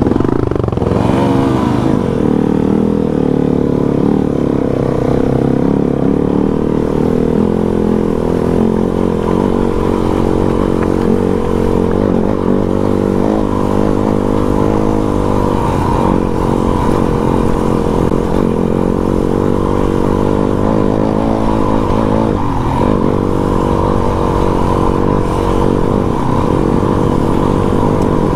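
Yamaha WR250 trail bike's single-cylinder four-stroke engine running under riding load, its pitch rising and falling as the throttle is worked, with a brief dip about three quarters of the way through.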